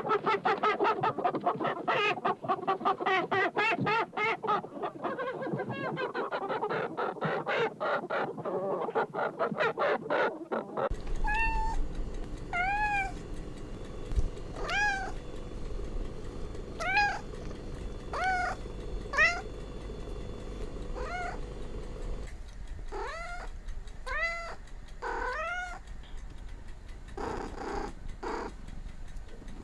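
Chickens clucking busily for the first ten seconds or so, then a domestic cat meowing: single meows about every two seconds, followed by a quicker run of meows near the end.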